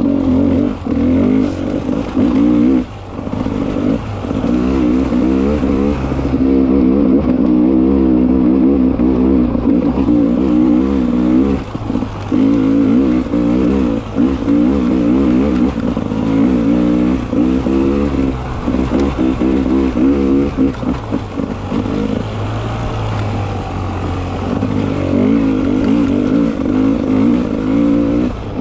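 Beta 300 RR two-stroke enduro motorcycle engine revving up and down under constant throttle changes, its pitch rising and falling, with brief drops where the throttle is shut off.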